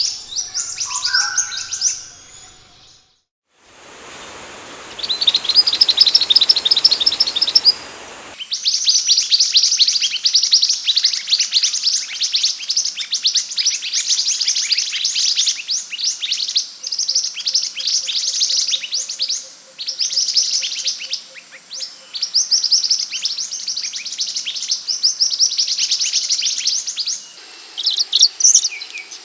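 Scarlet minivet (sepah hutan) song: rapid, high chirps in repeated bursts. Edited as spliced recordings, with a brief silent break about 3 s in and a hissy stretch before a cleaner recording from about 8 s on.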